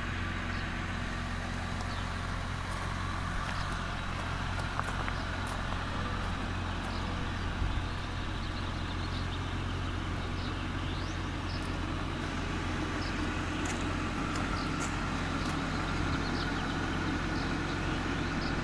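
Jeep Gladiator engine idling steadily, with faint scattered high chirps over it.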